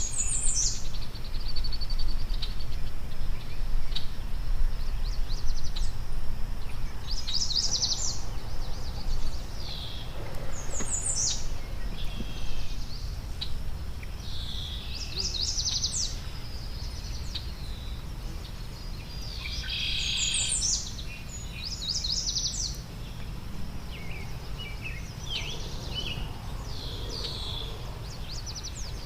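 Wild songbirds at a backyard feeder singing and calling, with short, high, rapid phrases repeated every few seconds over a steady low rumble.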